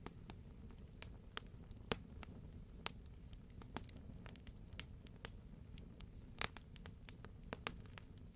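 Campfire crackling: irregular sharp pops and snaps of burning wood, a few a second, over a steady low rumble, with two louder pops about two seconds in and about six and a half seconds in.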